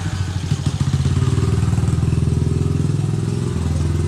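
A small engine running close by, with an even, rapid low pulsing that shifts a little near the end.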